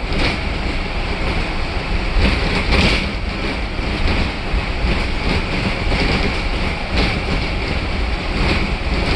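Inside the cabin of a 2010 Blue Bird cutaway bus on the move: steady engine and road rumble, with a few short rattles from the body.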